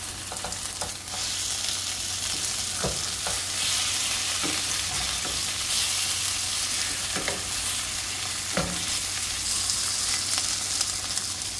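Egg-battered pollock fillets sizzling in oil in a stainless steel frying pan, a steady hiss. About four light knocks from the wooden spatula and chopsticks as the pieces are flipped.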